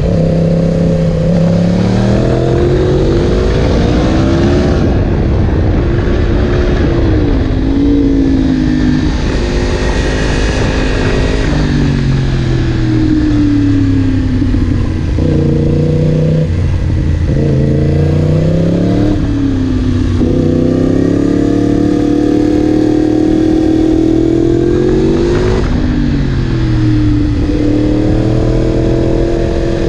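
Yamaha MT-10 SP's crossplane inline-four engine through an Akrapovic exhaust, its note repeatedly rising in pitch under throttle and dropping back, several times over.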